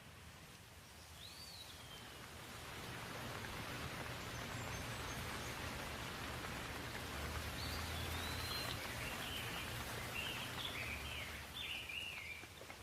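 Rain falling as an even hiss that builds over the first few seconds and eases off near the end, with a bird chirping once about a second in and a quick run of chirps near the end.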